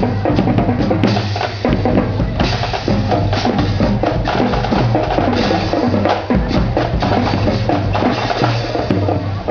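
Marching drum band playing snare and bass drums in a dense, steady beat.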